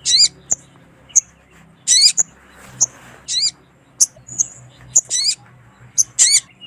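Little spiderhunter (sogon) calling: sharp high chips alternating with short wavering, trilled phrases, repeated about once a second. The uploader describes these as a female calling to a male.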